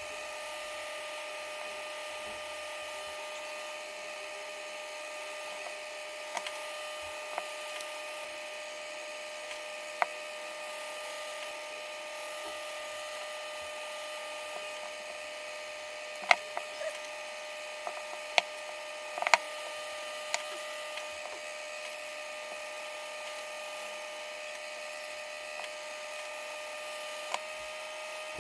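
A steady electrical whine, with a few sharp light clicks and taps from small tools as wires are soldered to a circuit board.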